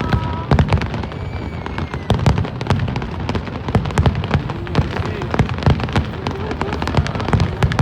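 Fireworks display: a rapid, continuous barrage of bangs and crackles, several a second, over low booms.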